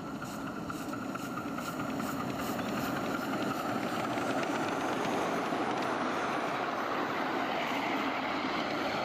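7¼-inch gauge miniature railway train running, a steady rushing noise that grows louder over the first few seconds and then holds.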